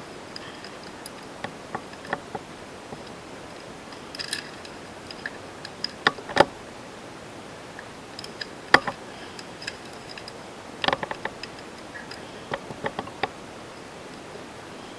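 Small, scattered clicks and ticks of a hand driver and a screw being worked into the brake lever of an RC car's rear assembly, with two louder clicks about six and a half and nine seconds in.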